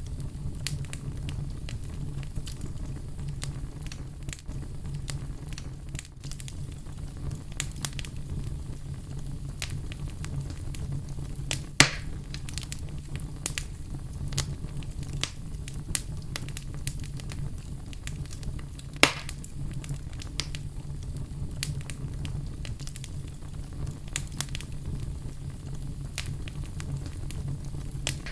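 Fire crackling: a steady low rumble of flames under a constant scatter of small pops and ticks, with two sharper, louder pops, one near the middle and one about two-thirds through.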